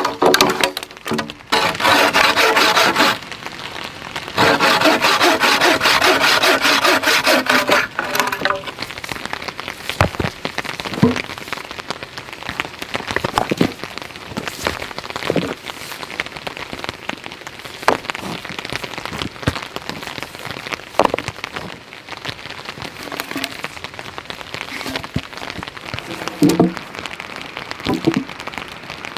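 Hand saw cutting wood in two spells of quick rasping strokes, a short one and then a longer one of about three and a half seconds, followed by scattered knocks and clicks over steady rain.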